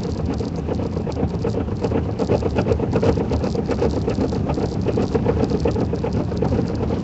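A car driving slowly on a snow-covered road, heard from inside the cabin: a steady engine and tyre rumble with a dense run of small rattles and knocks throughout.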